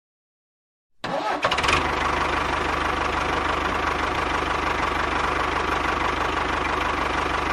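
A small motor starts abruptly about a second in and runs at a steady speed, with a fast, even pulsing.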